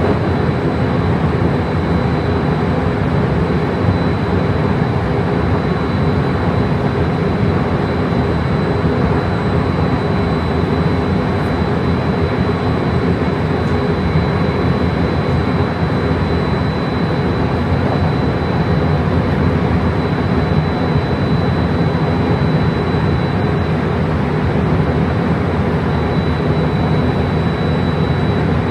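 Steady running noise of a JR train, an even rumble that holds without change, with a faint steady high tone above it.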